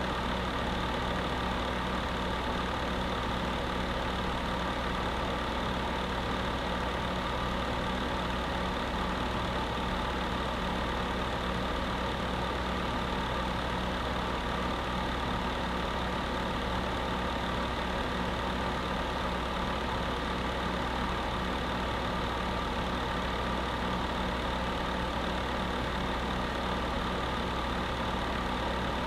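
Space heater running: a steady, unchanging whir with a low hum under it.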